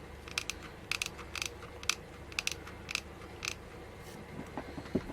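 Irregular sharp clicks and crackles of craft materials being handled, about a dozen scattered through the first three and a half seconds, with a couple of duller knocks near the end.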